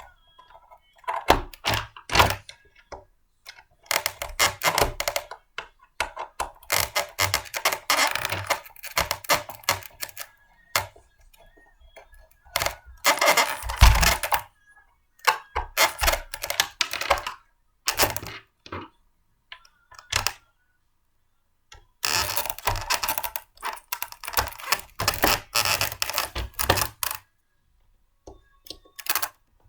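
Blender parts being handled and fitted together by hand: clusters of clicks, knocks and rattles with short pauses between them, with one heavier knock about halfway through.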